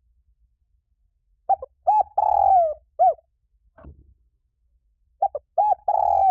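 Spotted dove cooing: two phrases, each of a few short coos around one longer coo that falls in pitch at its end, the first starting about a second and a half in and the second near the end.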